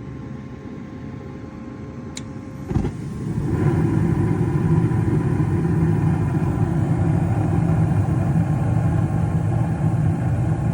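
Gas furnace starting up. A steady hum with a fixed tone gives way, about two seconds in, to a click, then a sudden thump as the burners light. A louder, steady burner roar builds over about a second and holds.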